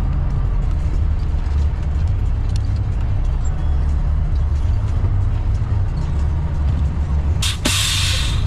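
Semi truck's diesel engine running with a steady low rumble. About a second before the end comes a short, sharp hiss of air.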